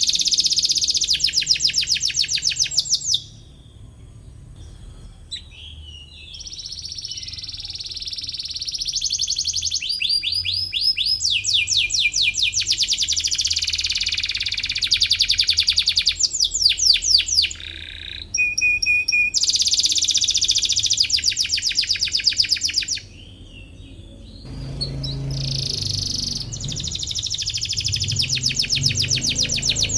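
Domestic canary singing in long phrases of rapid trills, fast runs of repeated high notes, broken by two short pauses.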